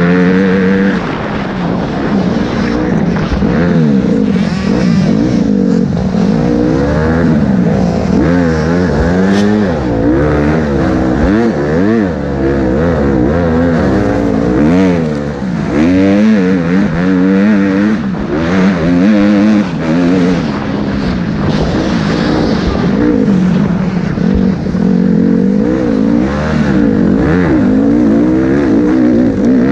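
Motocross bike engines revving hard, their pitch rising and falling over and over, with more than one engine's pitch crossing at times.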